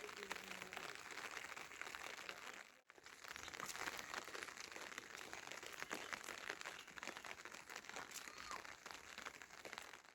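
Heavy rain pattering steadily, a dense fine crackle of drops. It cuts out abruptly for a moment about three seconds in.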